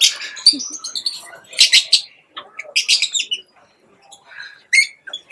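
Bird calls: clusters of short, high-pitched calls, with a quieter gap about two thirds of the way through.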